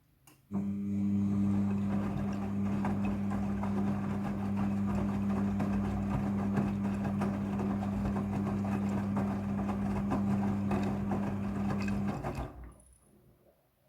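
Midea front-loading washing machine running with a steady electric hum over a rushing noise, starting suddenly about half a second in and cutting off near the end.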